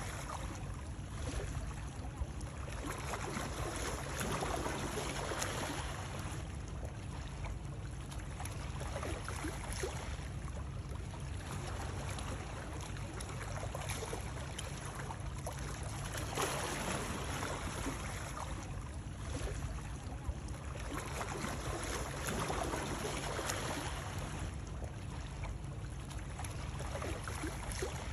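Continuous water sound: a steady rush of splashing, flowing water that swells and eases every couple of seconds, used as soothing white noise.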